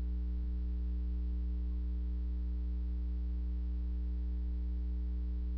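Steady electrical hum: a strong low drone with a few fainter higher tones above it, unchanging throughout.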